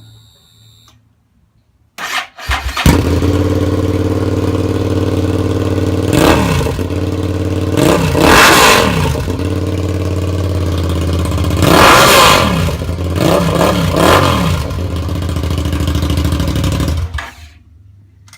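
2010 Suzuki SV650S's V-twin on straight pipes starting up about two seconds in and running loud, deafening, at a steady idle between several quick blips of the throttle, each rising and falling in pitch. It shuts off abruptly near the end.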